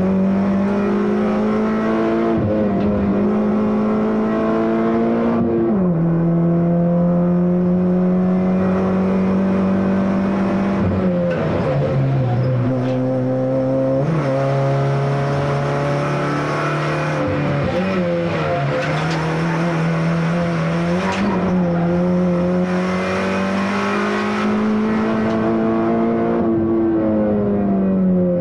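Citroën C2 VTS's 1.6-litre four-cylinder petrol engine pulling hard, heard from inside the stripped cabin. The engine note climbs slowly and drops sharply several times as the driver changes gear and lifts for corners.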